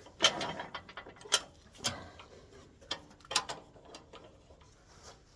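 Separate metallic clicks and knocks from a wood lathe being set up by hand, its tailstock and tool rest being adjusted and locked, with the lathe not running.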